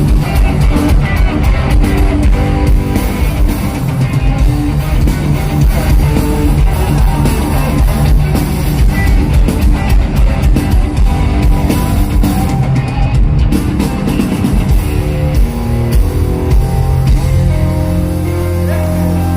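Rock music with guitars and a drum kit playing a driving rhythm, settling near the end into held, ringing low notes.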